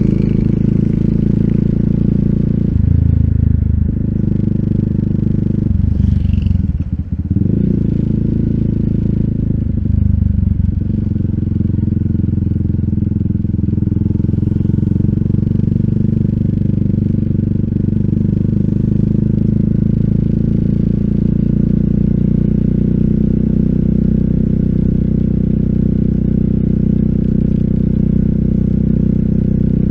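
RUSI Classic 250Fi single-cylinder engine running through an Eli's Muffler full exhaust with a bullet slip-on pipe and dB killer. It dips three times in the first ten seconds or so, as with gear shifts, then settles into a steady cruise.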